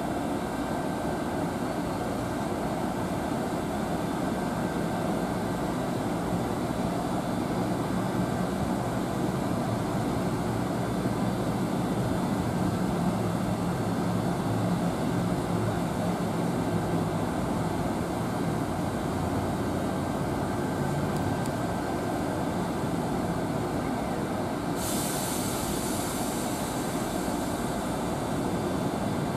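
A train at the station running steadily, an even rumble and hum with faint steady tones. A steady high hiss joins suddenly near the end.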